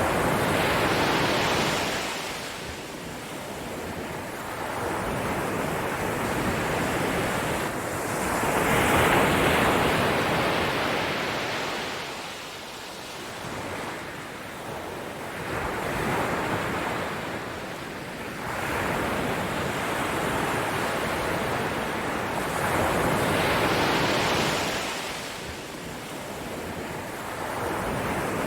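Ocean waves breaking and washing on the shore, surging and receding every several seconds in a steady rhythm.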